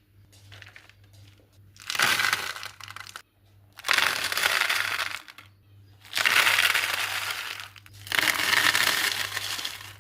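Egg food being crushed in four rough bursts, each about a second long and roughly two seconds apart.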